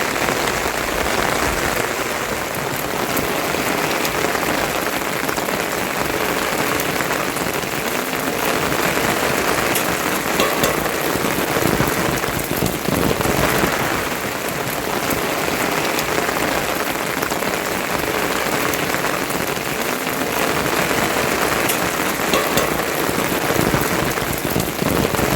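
Steady rain falling, with many small drop ticks scattered through the hiss.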